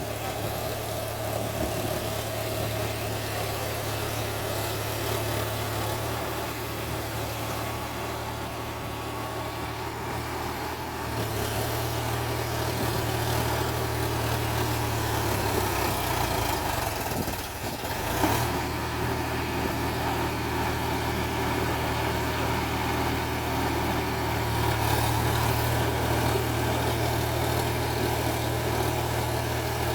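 Solis 5015 tractor's diesel engine running steadily, rising in level a few times, with a brief drop and a short clunk about 18 seconds in.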